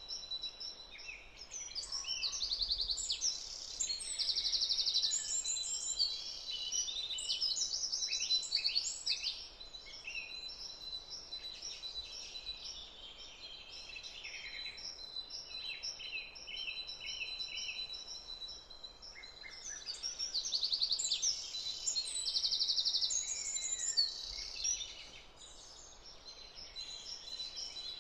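Several songbirds singing at once, overlapping trills and chirps, with two louder spells, one early and one near the end, over a thin steady high tone.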